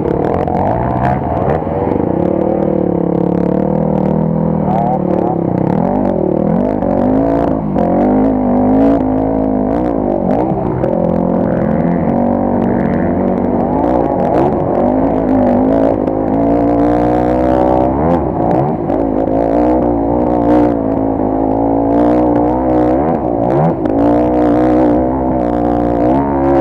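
Motorcycle engine running under constant throttle changes on an unpaved forest road, pitch rising and falling every few seconds, with scattered knocks from the rough surface.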